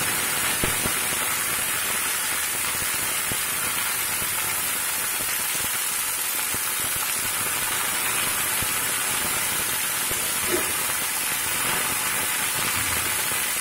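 Fresh drumstick (moringa) leaves sizzling steadily in hot oil in an aluminium kadai as they fry in a tempering of lentils and spices, with a few light knocks of the metal stirring spoon.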